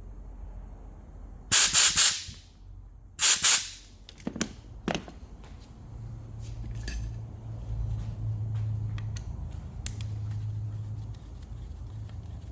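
Two short bursts of pressurised spray hissing, each about half a second long and the second about a second and a half after the first, followed by a few sharp clicks and then a low steady hum.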